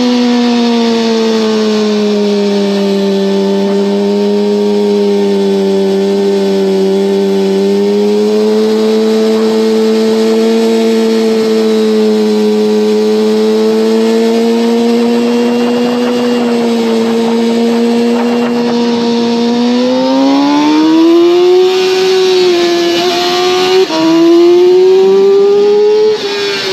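Yamaha R6's inline-four engine running at high revs under way, with wind rush on the microphone. It holds a steady pitch for most of the time, then climbs from about twenty seconds in, with short drops in pitch near the end.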